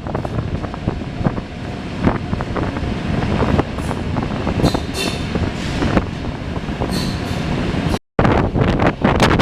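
Railway train running on the track: a steady rumble with repeated knocks from the wheels and a couple of brief high squeals. The sound cuts out for a moment near the end, then resumes.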